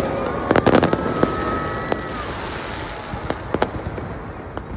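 Fireworks going off: a quick cluster of sharp bangs about half a second in, a faint whistle or two, then scattered single pops and cracks thinning out.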